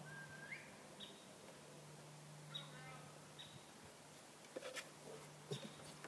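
Quiet open pasture: wild birds give short, high chirps every second or two, one a brief rising whistle at the start, over a faint steady low hum. There are a couple of faint clicks about two-thirds through.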